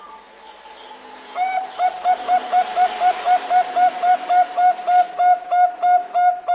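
Zebra dove (Bangkok-type perkutut) cooing: a fast, even run of short, clipped notes at about four a second, starting about a second and a half in after a fainter steady hum.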